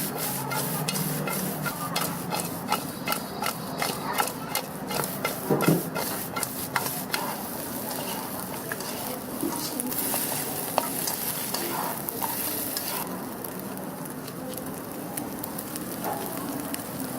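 Food being stir-fried in a hot wok, sizzling, with a spatula knocking and scraping rapidly against the pan through the first seven seconds or so. After that the stirring thins out to occasional knocks over a steady sizzle.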